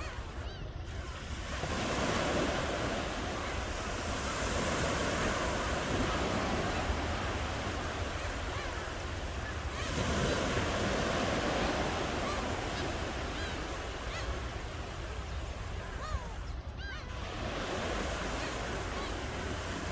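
Ocean waves breaking and washing up the shore, the surf noise swelling and fading in several surges, over a steady low rumble.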